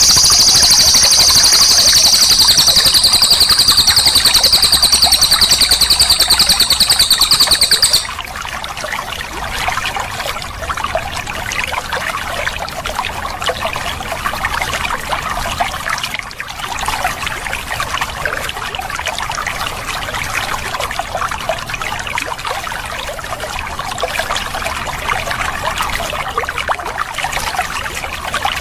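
A cililin songbird singing one loud, high-pitched, very rapid rolling trill for about eight seconds, cutting off abruptly, over steadily trickling, flowing water. After the trill only the trickling water remains.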